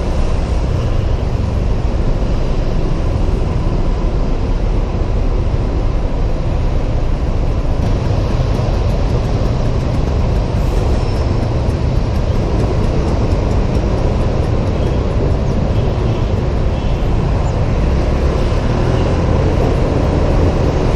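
Steady riding noise from a Honda PCX 125 scooter in city traffic: wind on the helmet camera's microphone over the scooter's engine and the road.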